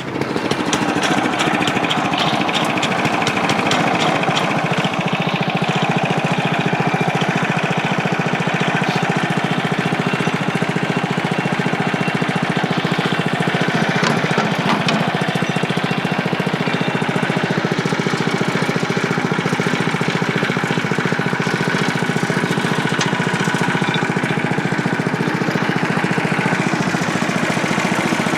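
Portable bandsaw sawmill with its small gasoline engine running steadily at an even speed, a constant mechanical drone that comes on right at the start and holds unchanged.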